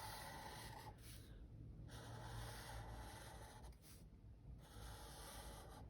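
A pen drawn across paper in three long strokes, each a soft scratchy hiss lasting one to two seconds with short pauses between: long lines being drawn.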